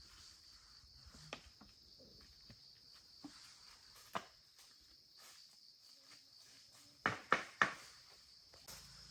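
A steady high insect trill, with a few sharp knocks: one a little over a second in, one about four seconds in, and three louder knocks in quick succession near the end.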